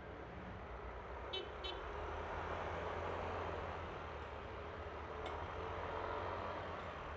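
Yamaha Aerox V3 scooter's 155 cc single-cylinder engine running under way, with road and wind noise that swells in the middle. Two quick horn toots sound about a second and a half in.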